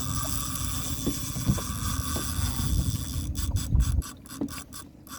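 Drag of a large Savage Gear SGS6 10000 spinning reel buzzing as a hooked bluefin tuna takes line, then slowing to separate clicks, about six or seven a second, for the last two seconds. A low rumble runs beneath it and drops away about four seconds in.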